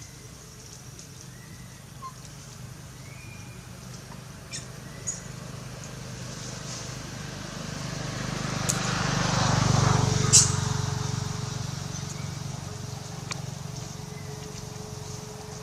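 A motor vehicle passing by: engine and road noise that builds over a few seconds, peaks just past the middle and fades away, with a few sharp clicks along the way.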